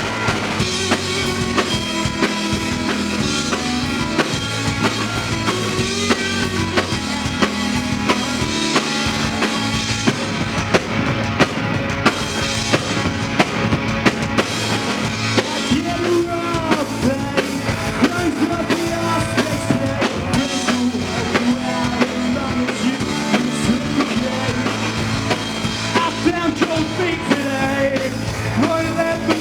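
Live rock band playing loudly, with a drum kit keeping a steady beat under amplified instruments.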